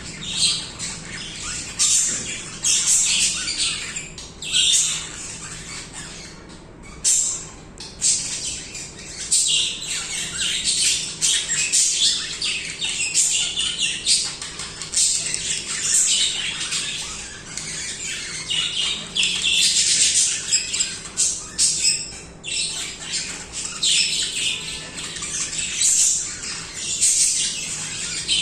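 Budgerigars chattering and warbling without a break: a dense, overlapping stream of short chirps and trills, with louder squawks standing out every second or two.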